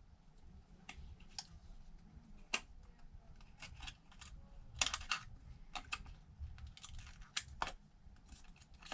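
Faint, irregular small clicks and taps of a tool cutting and working at thin protective film on a tablet screen, a few of them sharper around the middle.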